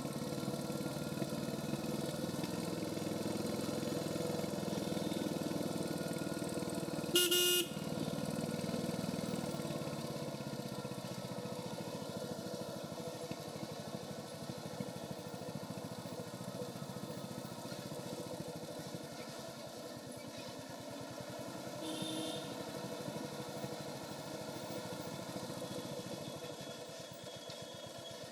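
Royal Enfield Hunter 350's single-cylinder engine running steadily under way through its stock exhaust. A vehicle horn honks once, briefly and loudly, about seven seconds in, and a fainter horn sounds about twenty-two seconds in.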